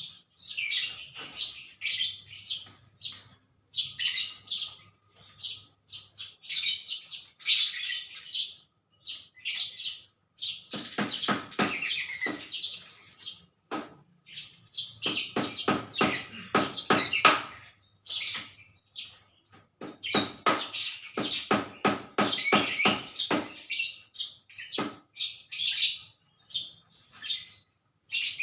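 Small birds chirping in quick, repeated high notes, with several runs of rapid chattering.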